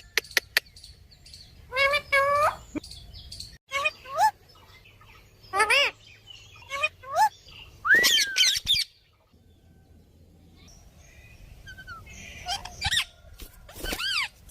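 Parrot giving a series of short calls and whistles that slide up and down in pitch, with a quieter pause in the middle.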